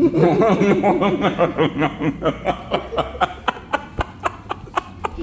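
A person laughing hard: a long run of quick, rhythmic 'ha' pulses that grow fainter and further apart toward the end.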